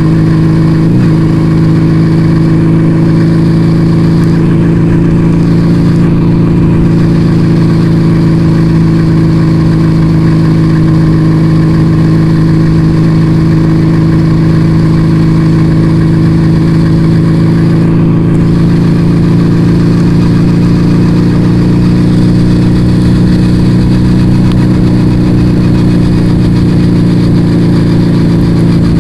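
Yamaha Vega ZR motorcycle engine breathing through an aftermarket Arrow exhaust, running at a steady, unchanging pitch while cruising.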